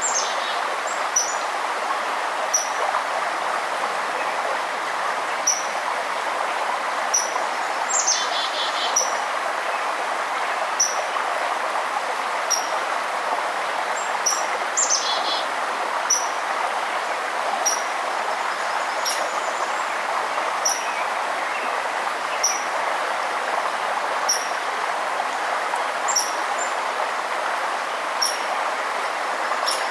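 Steady rush of a flowing river or stream, with a bird repeating a short high chip note about every second and a half, and two longer, descending calls about 8 and 15 seconds in.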